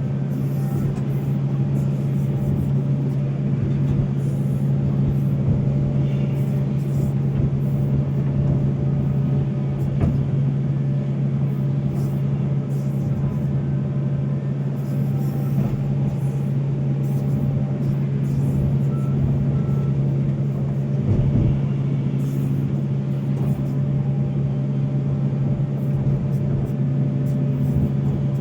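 Volvo excavator's diesel engine running steadily at one constant pitch, with scattered short ticks over it.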